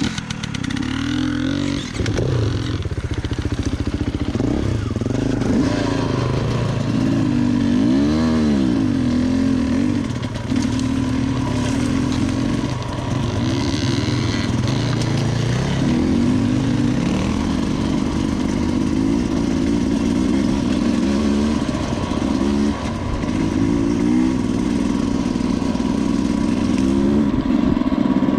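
Dirt bike engine running under way on a trail, its revs rising and falling again and again as the throttle is worked.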